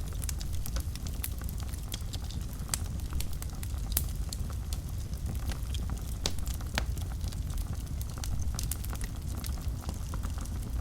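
Wood fire burning in a fireplace: a steady low rumble of flames under irregular sharp crackles and pops, a few louder pops standing out, one of them about four seconds in.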